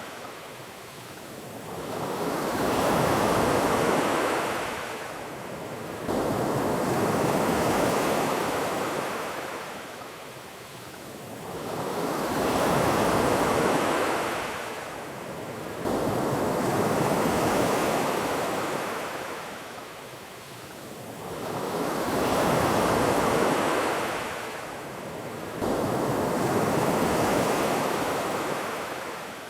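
Ocean waves breaking on a beach, the surf swelling and falling back about every four to five seconds, six times in a row.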